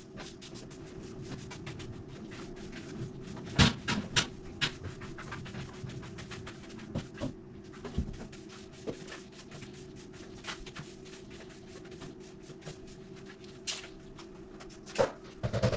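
Scattered clicks and knocks of household objects being handled and set down, over a steady low hum.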